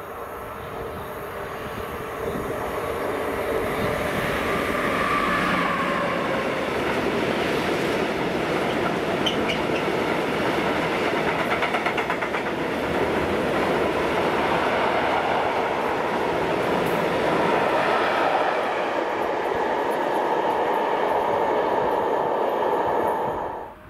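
Freight train of tank wagons rolling past close by: a steady rumble of wheels on rail that builds over the first few seconds as the train arrives. Clickety-clack of the wagons' wheels over the rail joints comes through around the middle, and the sound cuts off suddenly near the end.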